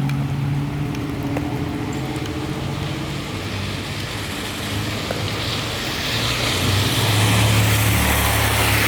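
A passing vehicle's engine drone, building up through the second half with a rising rush of noise on top.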